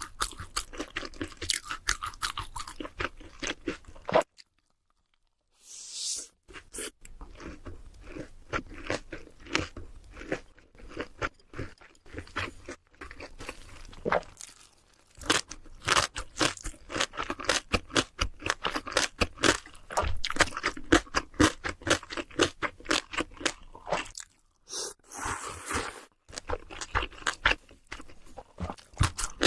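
Close-miked crunching and chewing of crispy fried food, dense crackly bites one after another, broken by a brief cut to dead silence about four seconds in.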